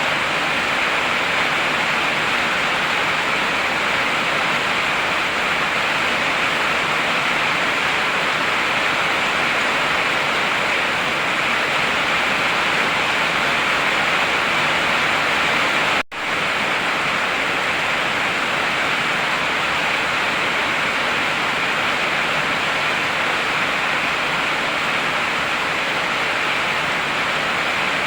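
Heavy rain pouring steadily, a dense even hiss. It cuts out for an instant about halfway through, then resumes unchanged.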